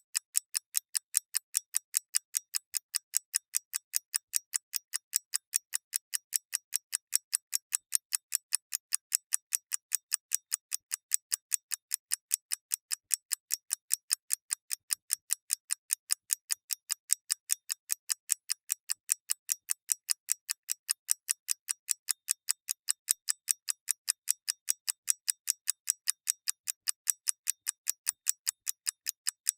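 Mechanical clock ticking: a fast, perfectly even run of light, crisp ticks, several a second.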